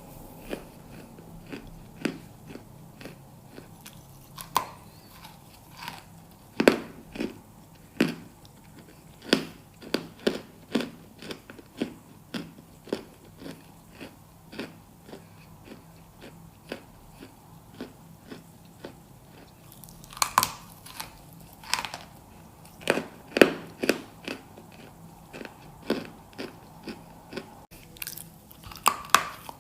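Close-miked biting and chewing of pieces of edible chalk: sharp, dry crunches at an irregular pace, about one or two a second, with a louder run of bites about two-thirds of the way through.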